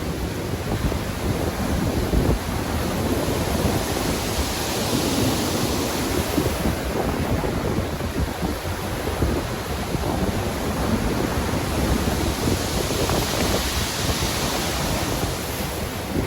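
Stormy sea waves surging and breaking in a continuous rush of noise. The noise swells into a brighter hiss twice, about four seconds in and again about thirteen seconds in.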